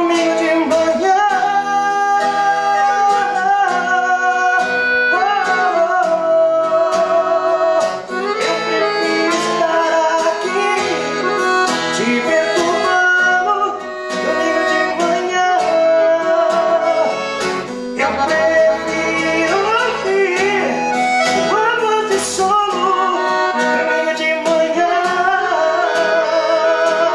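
Instrumental break in a song: a free-reed lead instrument plays the melody, with a wavering, sustained tone, over guitar accompaniment.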